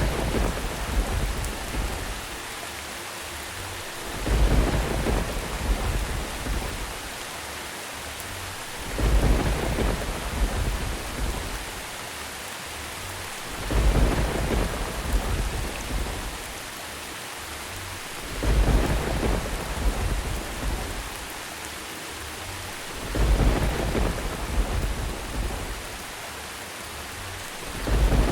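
Steady rain with rolls of thunder that swell up suddenly and rumble away over a couple of seconds. The rolls recur at evenly spaced intervals, about every four and a half seconds, as from a looped recording.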